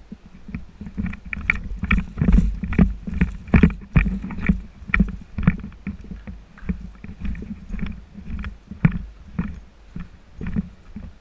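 Footsteps and knocks of a player's gear, about two a second and loudest in the first half, over a low rumble of handling noise on a body-worn camera microphone.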